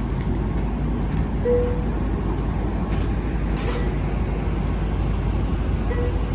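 Steady low rumble of a passenger train standing at the platform, its diesel locomotive idling, with a faint short tone twice.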